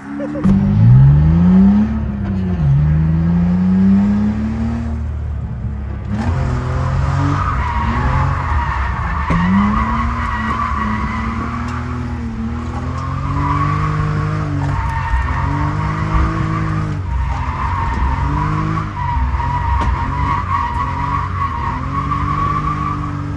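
A drift car's engine revving up and down again and again, with its tyres squealing in long slides from about six seconds in.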